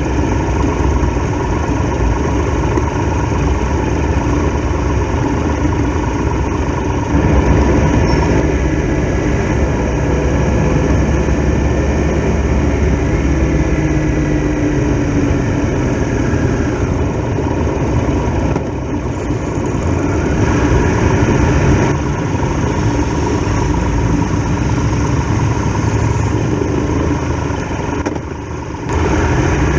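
Triumph Tiger Explorer XRx motorcycle's three-cylinder engine running on the road. The sound is steady and loud, shifting abruptly in level and tone a few times.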